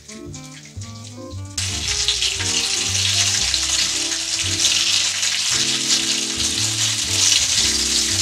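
Cornmeal-coated green tomato slices sizzling in hot oil in a frying pan. The sizzle comes in suddenly about a second and a half in and stays loud, over background music.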